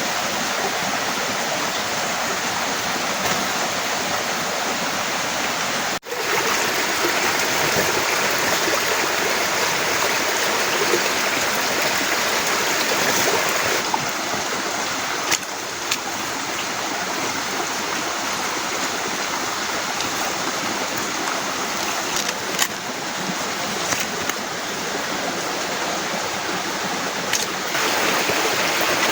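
Heavy rain falling, a steady dense hiss with a few sharp ticks of drops striking. The sound cuts out for a moment about six seconds in, then carries on.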